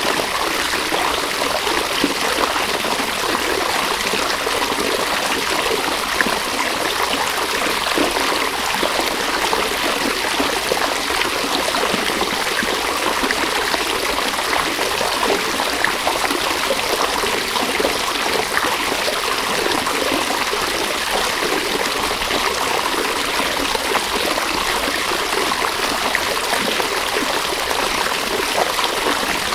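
A river or stream running steadily over stones, a continuous rushing and trickling of water.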